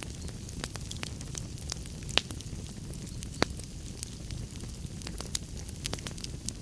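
Wood fire burning in a fireplace: a steady low rumble of flames with frequent sharp crackles, and louder pops about two and three and a half seconds in.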